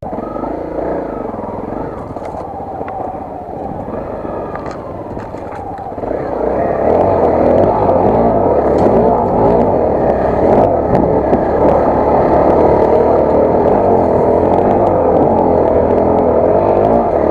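Honda CRF250L's single-cylinder four-stroke engine running as the dirt bike is ridden, getting louder about six seconds in and then holding steady.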